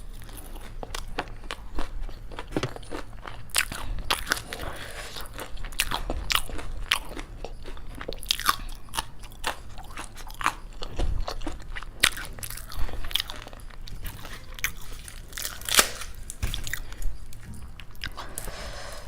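A person biting and chewing crisp fried food close to the microphone: repeated irregular crunches and crackles.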